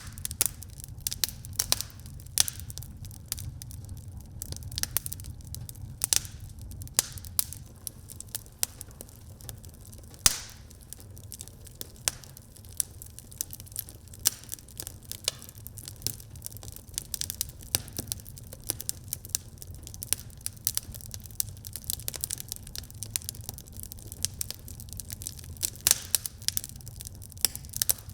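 Wood fire burning in a fireplace: frequent irregular crackles and pops over a steady low rumble of the flames, with one louder pop about ten seconds in.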